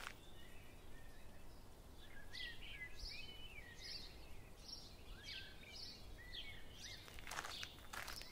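Faint bird chirps, a quick series of short rising-and-falling notes, about two a second, with two footsteps on sandy ground near the end.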